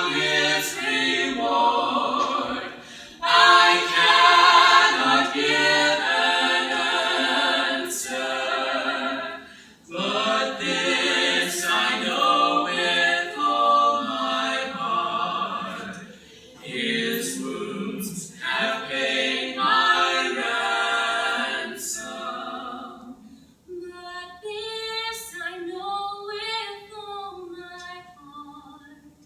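A small a cappella vocal group singing a worship song in harmony, with short breaks between phrases. Near the end the harmony drops away to a single sung voice, held softer.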